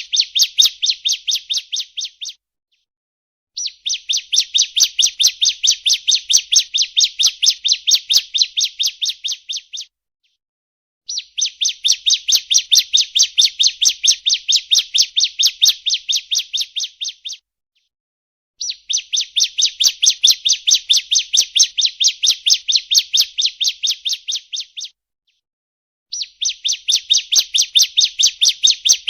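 Lure recording of a bar-winged prinia (ciblek) call: bouts of rapid, even, high chirps, about five a second, each bout some six seconds long, broken by short pauses of a second or so.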